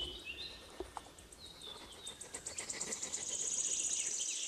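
Quiet outdoor birdsong: small birds giving short high chirps. From about halfway, a rapid high-pitched buzzing trill joins in and grows louder.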